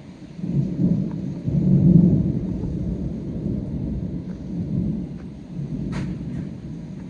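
Rolling thunder: a low rumble that builds about half a second in, is loudest around two seconds, then rolls on in weaker swells as it fades.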